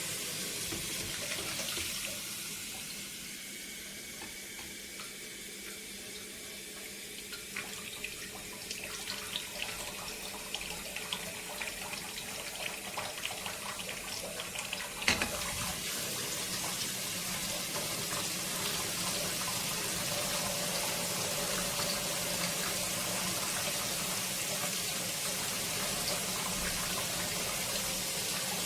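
Water heating in a glass electric kettle: scattered small ticks and crackles, then a steady rushing hiss as it nears the boil.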